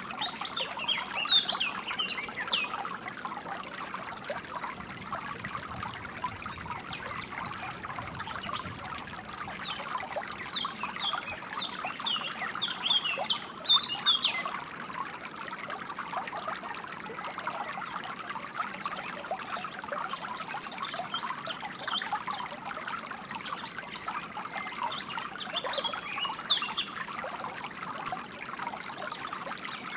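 Water trickling and splashing in a steady flow, with birds chirping over it in short bursts of quick high notes, thickest about a third of the way in and again near the end.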